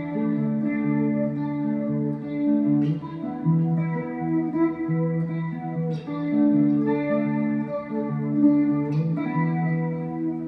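Electric guitar played through a Mooer GE100Pro multi-effects preset: strummed chords left ringing, with a new strum about every three seconds.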